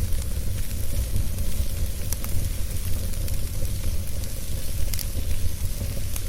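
Wood fire burning: a steady low rumble and hiss with scattered sharp crackles and pops.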